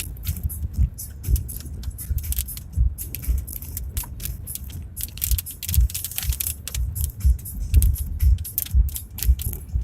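Car driving over rough ground in a dust storm: a low rumble with frequent jolts and a steady dense clatter of small clicks and rattles.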